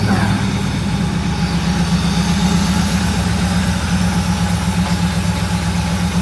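Mercedes 6.9's 6.9-litre V8 idling steadily from a cold start, really loud and noisy because its muffler has been cut off.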